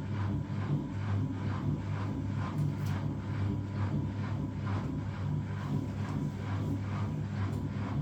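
Washing machine running mid-cycle: a steady motor hum with a regular noise that repeats about three times a second, as the drum turns.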